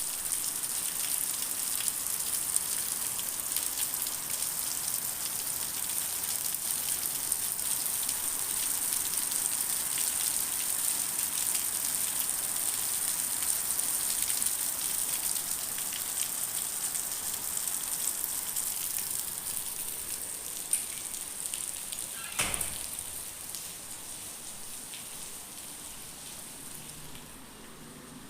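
Steady rain falling, a dense patter of drops that eases off toward the end. A single sharp knock sounds about three-quarters of the way through.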